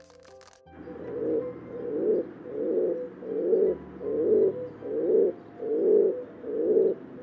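Crowned pigeon cooing: a run of low coos repeated evenly, about one every three-quarters of a second, starting just under a second in.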